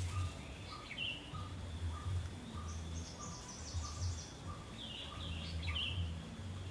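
Faint outdoor birdsong: short high chirps about a second in and again near the end, over a row of short notes repeating roughly twice a second and a low pulsing hum.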